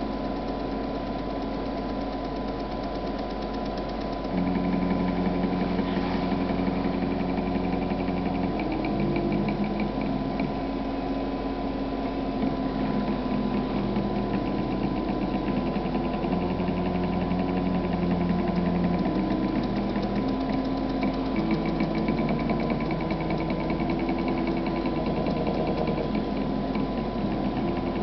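Stepper motors of a DIY CNC hot-wire foam cutter running, their hum jumping to a new pitch every second or two as the axes change speed. A steady high tone sounds throughout.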